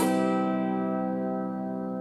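Acoustic guitar chord strummed once, right at the start, then left to ring out and slowly fade.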